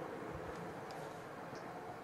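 Faint, steady rumble of a distant LNER Class 801 Azuma train approaching.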